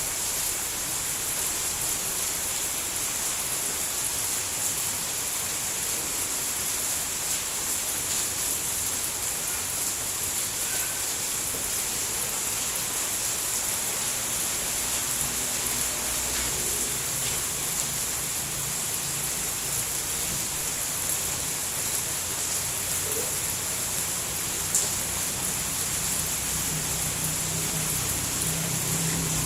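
Steady rain falling, an even hiss with a single sharp drip about 25 seconds in. A low hum fades in under the rain over the second half.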